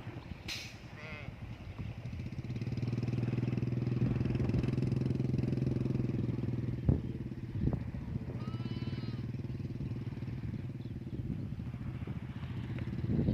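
A motor vehicle engine running with a steady low hum, growing louder about two seconds in and easing off after the middle. A couple of sharp knocks come just before a short high call near the middle.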